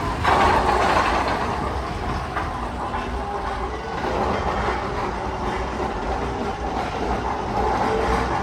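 Magnum XL 200 steel roller coaster train rumbling along its track, its wheels making a steady roar with a faint whine and a surge in loudness about a second in.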